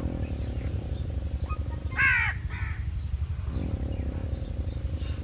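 A loud, harsh bird call, a caw, about two seconds in, followed at once by a fainter second call, over a steady low rumble.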